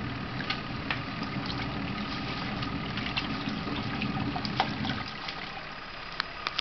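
Twin-tub washing machine running, a steady motor hum under water sloshing and splashing in the tub. The motor stops about five seconds in, leaving only water splashes.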